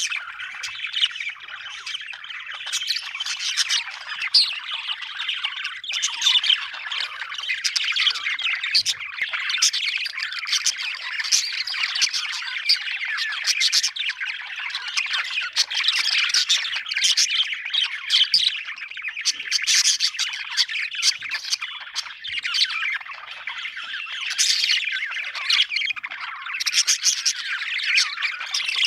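Budgerigars chirping and warbling without pause, many calls overlapping, with short sharp squawks scattered through.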